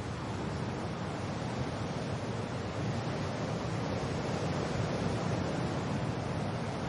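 Wind and rain: a steady rushing noise with no breaks or separate drops standing out.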